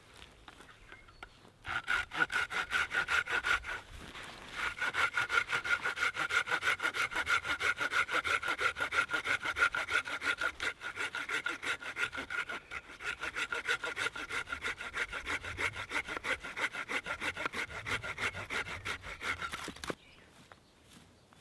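Hand saw cutting through wood in quick, regular back-and-forth strokes with a ringing blade tone, pausing briefly about four seconds in and stopping near the end.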